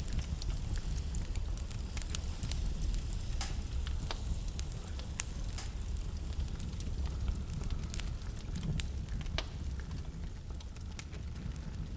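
Wood fire burning in a fireplace: a steady low rumble of flames with frequent sharp crackles and pops from the burning logs, a few louder pops scattered through.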